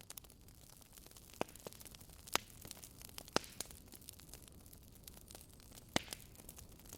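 Fireplace fire crackling: a low steady hiss with several sharp pops scattered through it.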